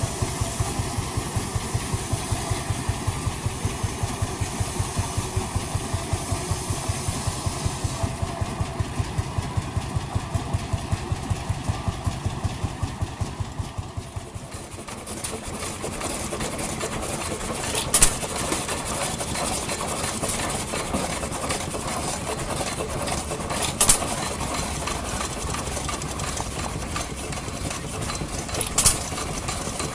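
Vintage engines running. First comes a steady, even beat that fades away about halfway through, then another engine with a faster, busier running sound, broken three times by a sharp bang.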